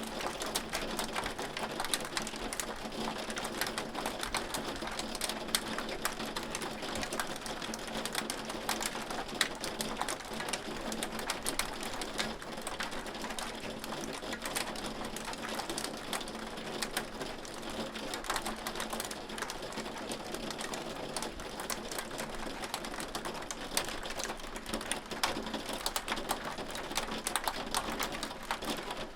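Hail falling steadily: a dense, unbroken rattle of many small impacts.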